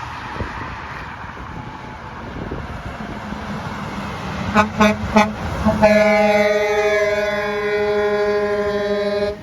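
Truck horn: two short toots, then one long steady blast of about three and a half seconds that cuts off sharply, over the noise of the passing truck.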